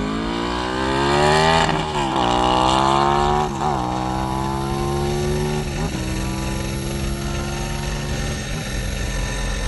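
Race motorcycle engine accelerating hard at full throttle, shifting up through the gears about four times: the pitch climbs, drops at each shift, and each climb is slower as it pulls away and fades. No top-end or lifter rattle is heard under power, though it was noticed at low revs.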